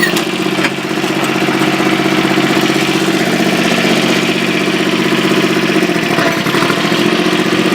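Tractor engine running steadily at low revs, its note shifting about six seconds in.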